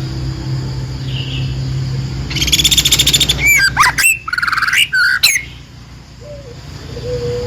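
A songbird singing: a fast, high trill of rapid notes, then a run of loud sweeping whistles rising and falling in pitch, ending about two thirds of the way in. A faint low held call follows near the end, over a steady low hum.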